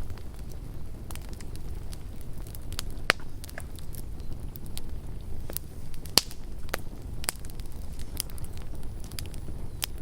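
Campfire burning, its wood crackling and popping at irregular moments over a steady low rumble, with sharper pops about three and six seconds in.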